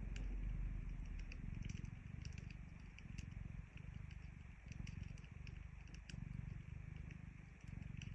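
Domestic cat purring as it dozes, a low pulsing rumble rising and falling in phases about a second long with each breath. Sharp crackles from a wood fire pop through it now and then.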